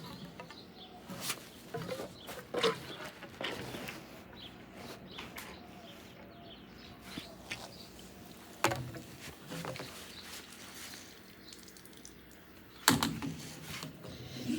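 Scattered clicks and knocks from objects being handled, over a quiet background; the sharpest knock comes near the end.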